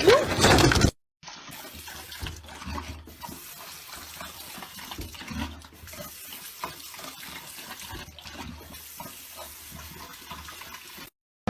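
A loud noisy sound cuts off abruptly about a second in. After a brief silence comes steady running water with small irregular ticks, like a tap running into a sink.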